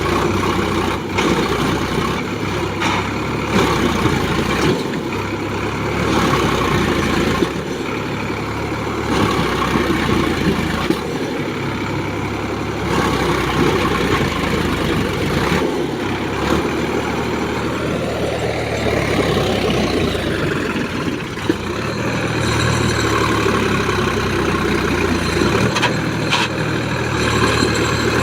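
Sonalika tractor's diesel engine running steadily under load, pulling a fully loaded trolley. About two-thirds of the way in, a sound briefly rises and falls in pitch.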